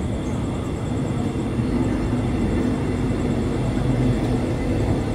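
Passenger train coaches rolling past a station platform: a steady rumble of steel wheels on the rails.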